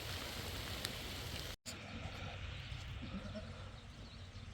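Sheep bleating faintly over a steady hiss, broken by an abrupt cut about a second and a half in.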